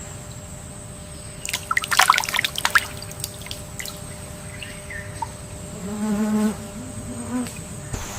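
Wetland nature ambience: a steady hiss with a thin high whine, and a quick patter of splashes or clicks from about one and a half to three seconds in. An insect buzzes briefly about six seconds in, with a shorter buzz a second later.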